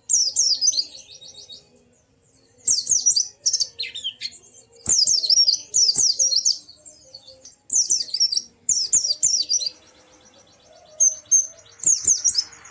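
White-eye (pleci) singing: high, fast, warbling twitter phrases in about five bursts of one to two seconds each, with short pauses between.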